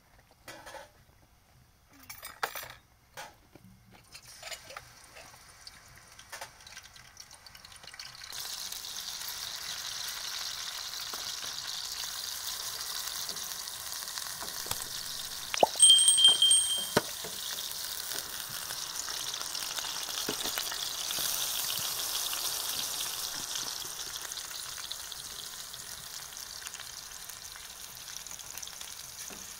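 Food frying in a pan: after a few light knocks, a steady sizzle starts abruptly about a quarter of the way in and carries on. About halfway through, a brief, loud high-pitched ring stands out over the sizzle.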